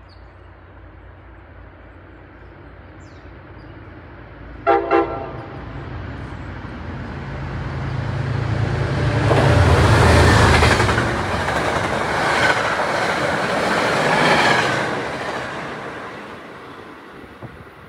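MBTA HSP-46 diesel locomotive hauling a commuter train sounds one short horn blast about five seconds in, then passes: the locomotive's engine rumble builds to a peak, followed by the coaches' wheels clattering over the rails, fading away near the end.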